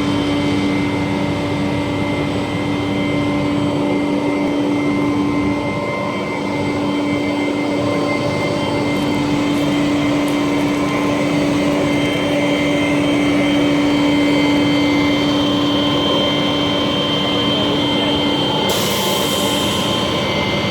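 International 4900 garbage truck's diesel engine running steadily, with a steady droning tone over it. Near the end comes a short, sharp hiss of released air.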